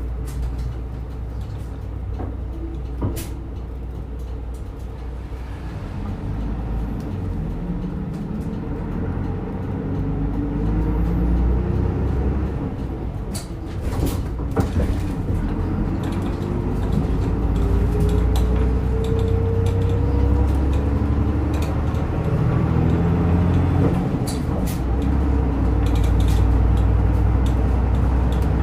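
Route bus heard from inside the cabin while driving: the engine and drivetrain run with a steady low rumble. A whine rises in pitch through the middle as the bus gathers speed, with a few sharp clicks and rattles.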